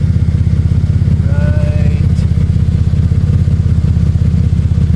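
2008 Saturn Aura engine idling, with a loud, rapid, even exhaust pulsing from underneath the car, which the owner takes for a bolt come loose on the exhaust.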